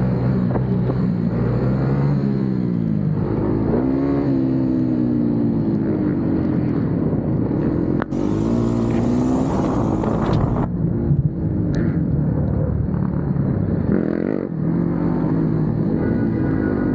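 Motorcycle engines running and revving, their pitch rising and falling again and again, with a burst of hiss about halfway through.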